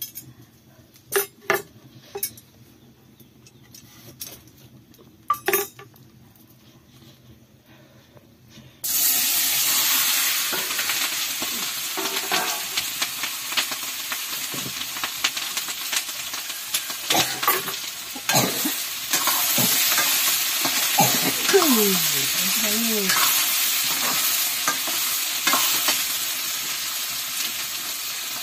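A few light clinks. Then, about nine seconds in, a sudden loud sizzle as ingredients for a potato curry go into hot oil in a pan. The frying keeps sizzling while it is stirred, with scrapes and clicks of the spoon against the pan.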